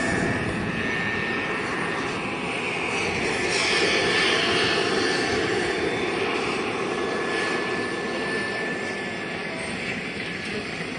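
JetCat PHT3 gas turbine of a Vario Hughes 500E model helicopter running in flight: a steady high whine over a rushing noise, growing louder about four seconds in and then easing off.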